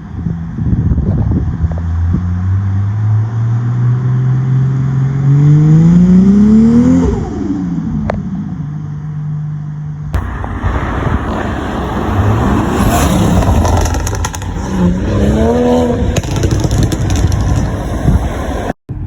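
A performance car engine accelerating hard, its pitch climbing steadily for about seven seconds before dropping back and settling at a lower steady note. About ten seconds in, the sound cuts to a noisier scene where another car's engine revs briefly.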